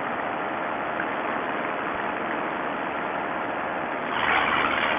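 Vittorazi Moster 185 single-cylinder two-stroke paramotor engine and propeller running steadily in flight, heard through the pilot's headset microphone; it grows louder about four seconds in.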